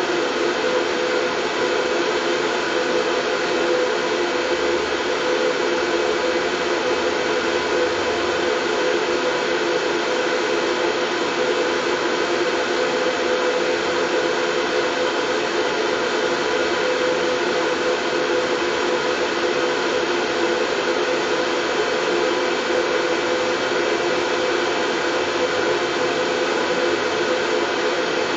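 Steady white noise with a hum running through it, unchanging in level.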